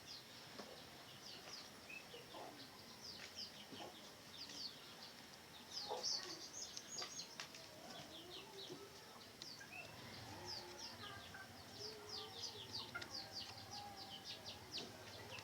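Red junglefowl clucking softly, with many short high chirps running through.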